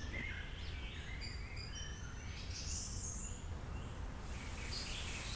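Forest ambience: small birds chirping in many short calls over a low, steady background rumble. A soft, even hiss joins about four seconds in.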